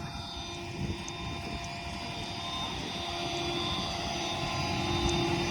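A vehicle engine running steadily with a steady whine over it, slowly getting louder.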